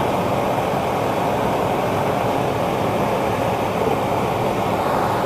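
Steady rushing noise inside a parked car's cabin, even and unbroken.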